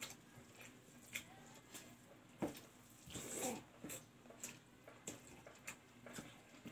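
Close-miked eating sounds from a person eating rice by hand: scattered wet mouth clicks and lip smacks while chewing, with a longer stretch of chewing a little after the middle.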